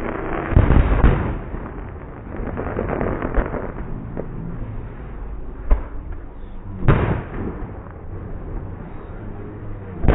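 Fireworks going off: loud bangs and booms, the biggest just under a second in and another about seven seconds in, with a stretch of crackling between and a sharp single bang near six seconds.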